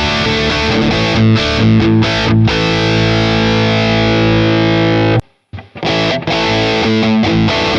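Electric guitar with a Seymour Duncan bridge humbucker played through a distorted amp: chords, one let ring for a few seconds, then cut off abruptly about five seconds in. After a brief silence the playing resumes.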